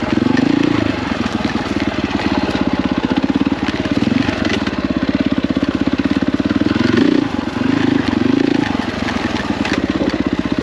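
KTM 450 EXC's single-cylinder four-stroke engine running at low revs with an even pulsing chug, swelling briefly a few times as the throttle is worked, about a second in, near the middle and again about three quarters through.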